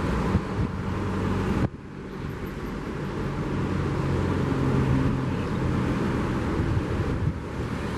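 Ocean surf washing on a beach under the engine hum of a car passing on the coastal road, loudest about five seconds in. The rushing noise drops abruptly about two seconds in, then builds again.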